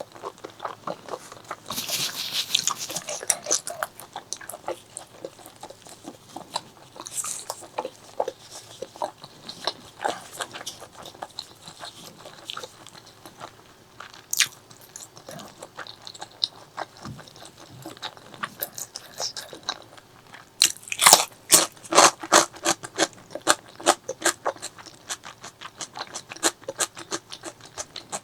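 Close-miked eating: a person chewing and crunching food with wet clicks of the mouth, with a run of loud crunchy bites about 21 seconds in.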